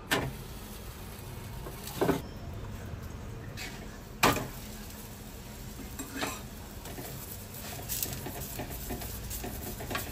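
Steel spoon clinking against a steel pot of ghee and an iron tawa while ghee is spread on a paratha cooking on the griddle. There are several sharp clinks a second or two apart, the loudest about four seconds in, over a steady low background rush.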